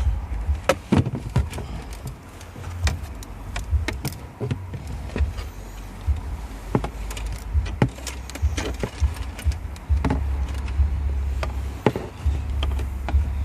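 Hands and tools working inside a car's dashboard: scattered clicks, knocks and rattles of parts and wiring being handled, over a low rumble that comes and goes.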